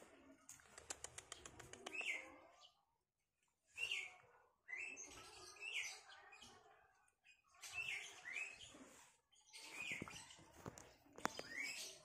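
Small bird chirping in short repeated calls every second or two, with a quick run of ticks about a second in.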